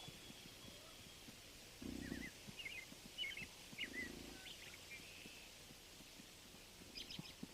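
Bison in a herd grunting: three short, low, pulsing grunts about two seconds apart. Between the first two grunts, small birds chirp briefly.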